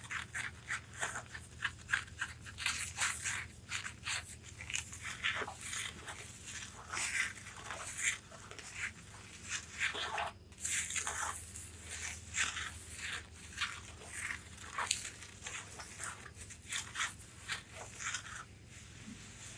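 Long fingernails tapping and scratching on a corset's fabric bodice: quick irregular taps mixed with short scratchy strokes, over a faint steady low hum.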